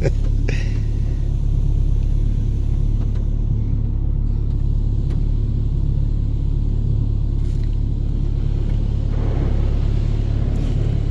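Automatic touchless car wash running, heard from inside the closed car: a steady low rumble of the wash machinery and spraying, with a few small clicks near the start and a swell of rushing spray about nine seconds in.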